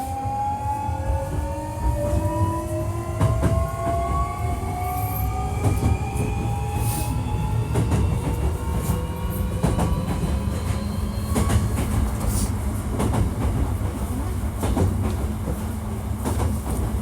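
Hankyu 1300 series electric train accelerating: the traction motors give a whine that climbs steadily in pitch for about the first half, then fades under the steady rumble of the running gear, with irregular clicks and knocks from the wheels on the track. The trainset is one known for an unusual running noise.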